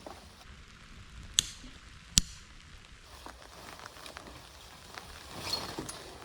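Light rain in the background, with two sharp clicks, one about a second and a half in and another under a second later, and a brief rustle near the end.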